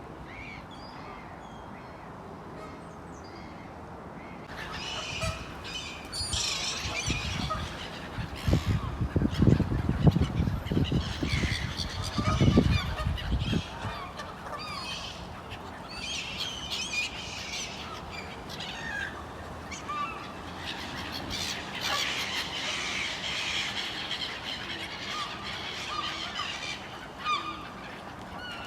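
Waterfowl honking, with many calls overlapping, starting about four seconds in and going on throughout. A loud low rumbling comes in bursts between about 8 and 13 seconds in.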